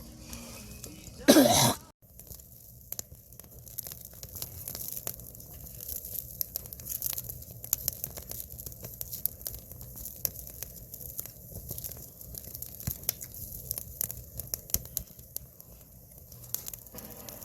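Firewood fire crackling, with many irregular sharp snaps and ticks. A short, much louder sound with a sliding pitch comes about a second and a half in.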